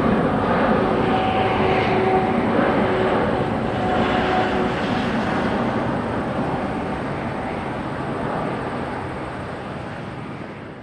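Boeing 777-200ER's twin jet engines at takeoff power, a broad roar with faint steady tones that fades gradually as the airliner climbs away.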